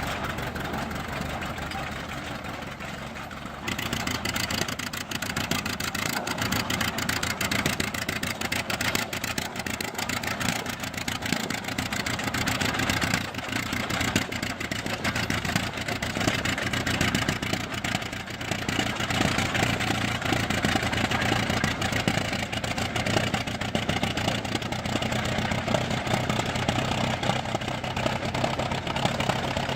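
Fordson E27N Major half-track tractor's four-cylinder side-valve petrol/kerosene engine running with a steady rapid beat. About four seconds in it gets louder and harsher and stays that way.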